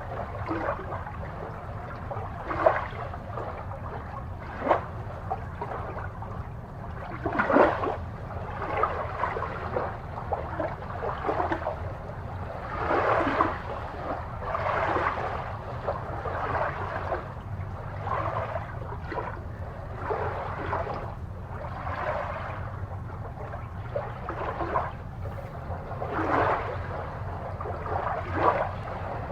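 Aquarium water gurgling and bubbling in irregular bursts, with a few sharp plops, over a steady low hum.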